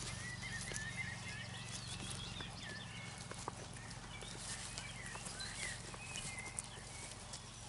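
Sheep grazing close by, with scattered short clicks of chewing and hooves. High, short chirping birdsong comes and goes throughout.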